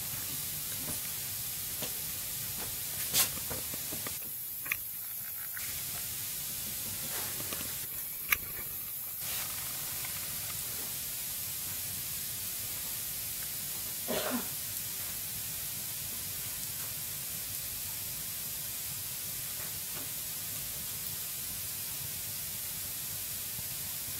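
Wood fire burning in a fireplace: a steady hiss with a few sharp crackles, the loudest about 3 and 8 seconds in. A brief squeak comes about 14 seconds in.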